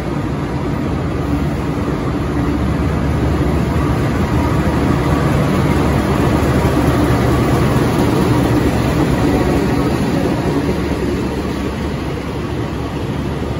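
Diesel locomotive running under way, heard from inside the cab: a steady engine drone with the rumble of the train's running gear, swelling a little toward the middle and then easing.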